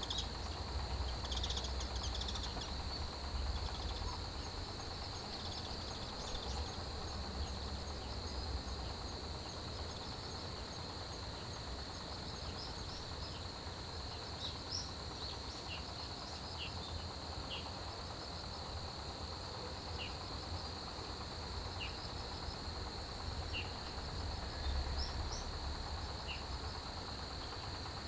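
Autumn grass insects chirping in a dense chorus: a steady high-pitched trill with a fast, rhythmic pulsing chirp above it and short separate chirps every couple of seconds. A steady low rumble runs underneath.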